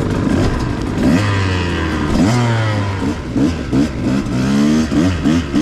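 A KTM 125XC two-stroke dirt bike's engine being revved on the move, its pitch climbing and dropping again several times in quick succession as the throttle is worked.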